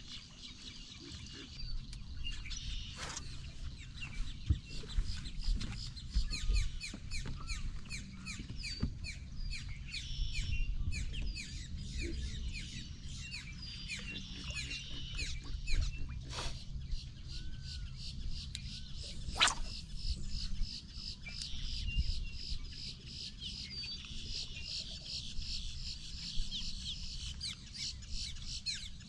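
Birds chirping and calling busily in many quick, high notes, over a steady low rumble.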